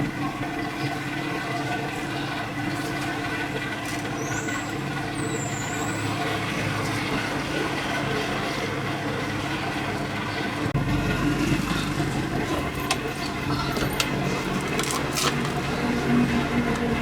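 A machine runs steadily with a constant drone and hiss, and a deeper rumble joins about two-thirds of the way through.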